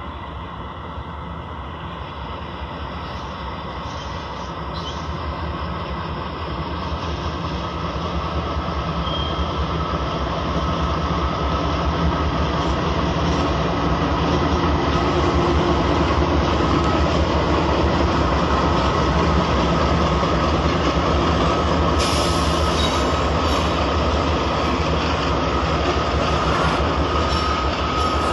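Freight train passing: its rumble grows louder over the first dozen seconds, then holds as a steady run of rolling cars with a thin, steady wheel squeal above it.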